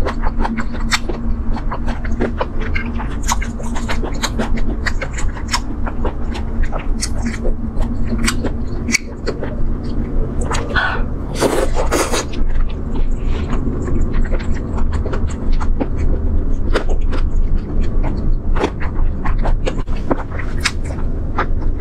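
Close-miked eating sounds of chewing braised chicken feet: a dense run of small, irregular wet clicks and crackles, with a louder, longer burst of mouth noise about eleven seconds in. A steady low hum runs underneath.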